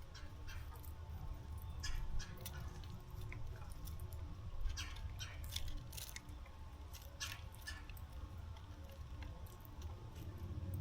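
Birds at a seed feeder: irregular sharp clicks and taps of pecking and cracking seed, over a steady low rumble.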